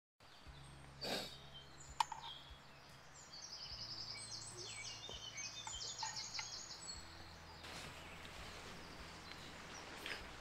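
A small songbird singing a fast run of short repeated high notes lasting a few seconds, over faint woodland background noise, with a couple of light clicks in the first two seconds.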